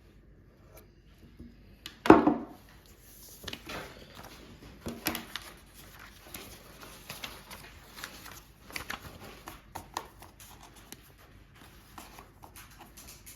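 Irregular light taps and clicks of a small dog's claws on a hard floor, with one louder knock about two seconds in.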